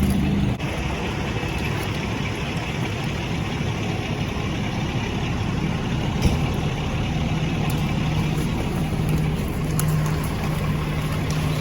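A fire engine's diesel engine running steadily, with a low steady hum that grows stronger about halfway through.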